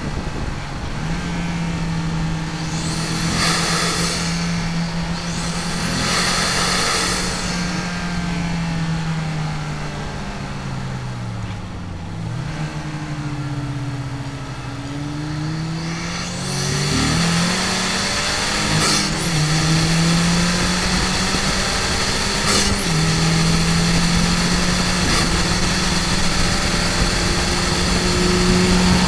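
Mazdaspeed3's turbocharged four-cylinder engine running hard, heard from inside the cabin on a fast lap. The engine note falls away around the middle as the car slows for a corner and climbs again, then a loud rushing noise joins it for the last third, with a few short breaks in the note.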